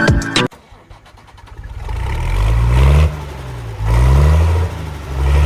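Music cuts off about half a second in. Then an engine revs up and down in repeated swells, each rising and falling in pitch.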